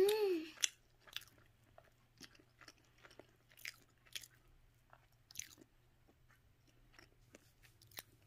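Quiet, irregular clicks and crunches of someone chewing a mouthful of pane pasta, a bread bowl filled with basil cream pasta.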